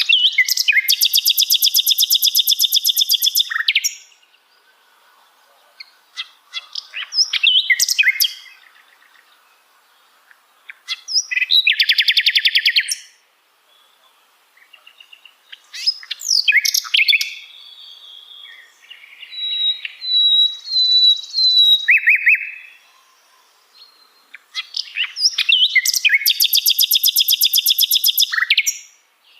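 Songbirds singing: a long, fast trill about three seconds long comes three times, at the start, in the middle and near the end, with shorter chirps and whistled notes between.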